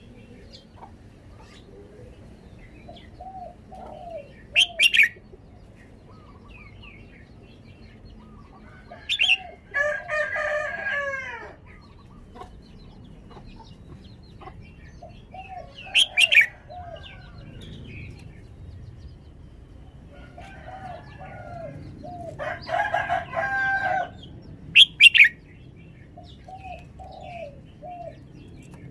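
Red-whiskered bulbul singing short, loud whistled phrases every few seconds. A rooster crows twice in the background, each crow about a second and a half long.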